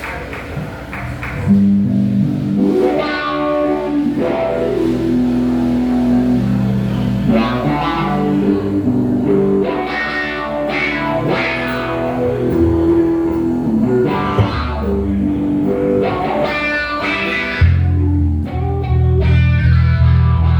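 Live band playing an instrumental passage: melodic guitar lines over bass, with heavier low bass notes coming in near the end.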